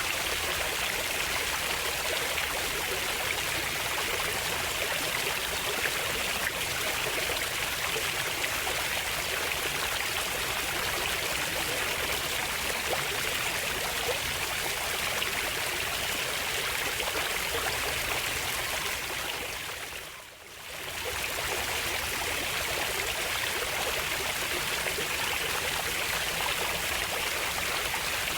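Running water of a stream, a steady rushing hiss that fades out briefly and comes back about twenty seconds in.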